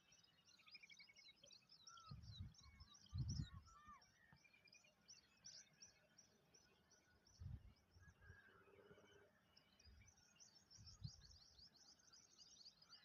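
Faint chorus of small songbirds: many short, high chirps and twitters with no pause. A few low thumps break in, the loudest about three seconds in.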